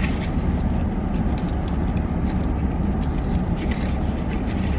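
Steady low rumble, with scattered light clicks and taps over it.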